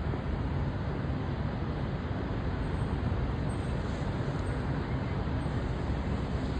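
Boeing 737-900ER jet engines making a steady low rumble with an even roar over it, without rising or falling.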